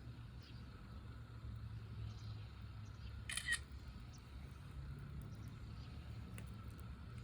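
Faint crackling of a wood fire in a fire pit: a few scattered clicks and a short cluster of sharp pops about three seconds in, over a low steady hum.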